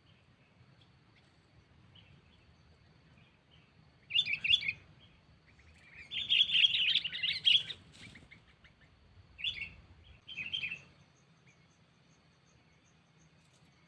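Sooty-headed bulbul (kutilang) calls in bouts: a short burst about four seconds in, a longer chattering run around six to eight seconds, then two short calls near ten seconds. This is a decoy bird calling to challenge a rival. A faint, regular insect-like ticking runs beneath the calls from about ten seconds on.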